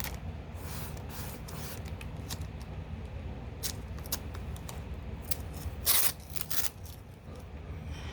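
Tape being handled and cut around the edges of a canvas: a run of short rasping, snipping and rubbing sounds, with a louder, longer rasp about six seconds in.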